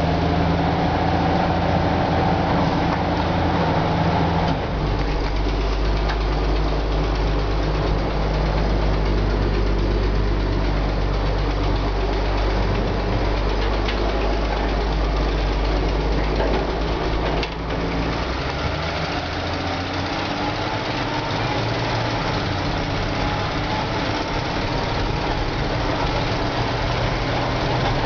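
The engine of a 1977 Chevrolet P30 ice cream truck running just after being started. Its pitch changes about five seconds in and again past halfway, and a faint whine slowly rises in pitch through the later part.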